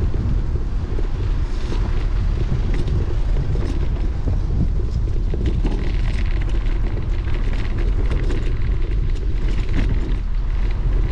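Steady low wind rumble on the microphone of a bicycle being ridden through rain, with tyre hiss on the wet path and scattered small ticks, brighter in the second half.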